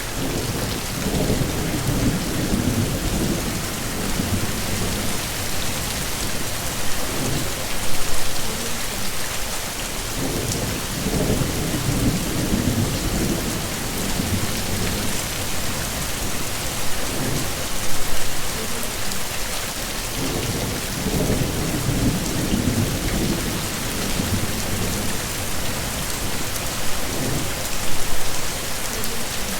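Steady heavy rain with low rolling rumbles of thunder swelling up about every ten seconds.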